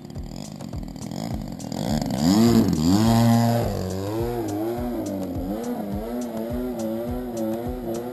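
DLE 20cc two-stroke gas engine on a model aircraft in flight, growing loud and rising in pitch, then dropping in pitch as it passes about two to three seconds in, then wavering up and down in pitch. Background music with a steady beat.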